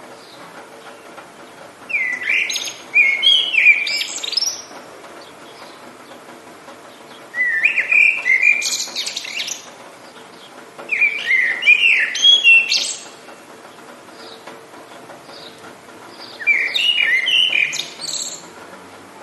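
A songbird singing four rich, warbling phrases of quick rising and falling notes, each about two to three seconds long, several seconds apart. A faint steady hiss of rain lies underneath.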